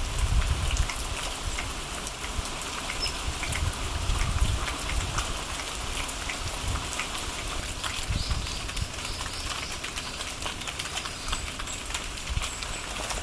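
Rain falling steadily, an even hiss with many small drop ticks. A low rumble comes and goes underneath. About eight seconds in, a bird gives a short run of high notes.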